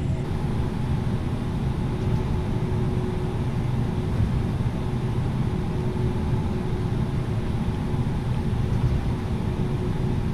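Steady cabin noise inside an Airbus A330-900neo: a constant low rumble from the engines and airflow with a steady hum over it.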